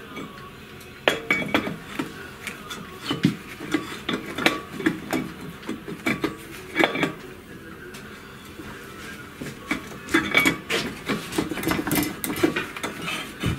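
Metal parts and hand tools clinking and knocking irregularly as a flywheel is fitted and fastened onto a small cultivator engine's crankshaft.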